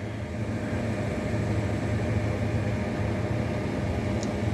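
Steady low hum of a running kitchen appliance or fan, even throughout, with a faint tick near the end.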